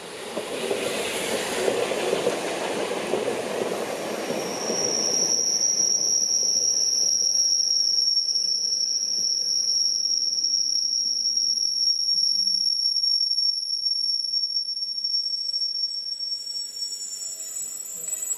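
Rhaetian Railway metre-gauge electric train running through the station close by: a loud rumble of wheels on rail for the first few seconds, then a steady high-pitched wheel squeal that holds for about twelve seconds. Near the end, several lower squealing tones join in.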